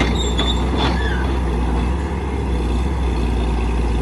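Heavy diesel engine of an excavator or dump truck running steadily under load. In the first second there are a few sharp knocks and a brief high squeak.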